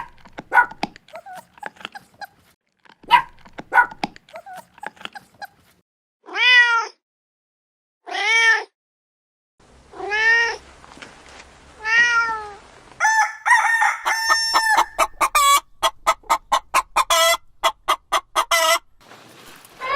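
A run of animal calls: short clucking sounds for the first several seconds, then four separate arching cries about two seconds apart, like meows, then a quick rapid run of calls.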